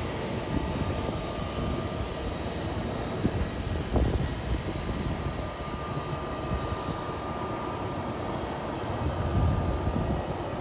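ATR 72-500 turboprop's engines running during its landing: a steady rumble with a faint thin whine. A brief thump comes about four seconds in.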